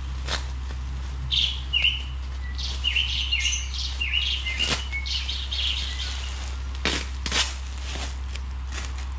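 Small birds chirping in a quick run of short, gliding calls for about five seconds. A few sharp clicks fall in between, and a steady low hum runs underneath.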